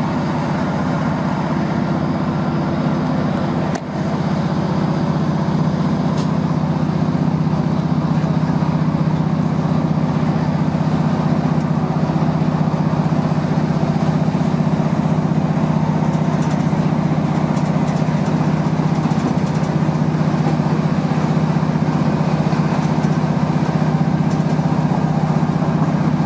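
Diesel multiple unit heard from inside the passenger saloon: a steady underfloor engine drone with wheel and rail noise, building a little as the train pulls away. There is a short sharp break in the sound about four seconds in.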